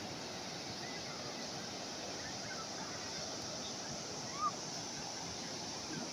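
Calm sea waves washing steadily on the shore, with a brief high chirp about four and a half seconds in.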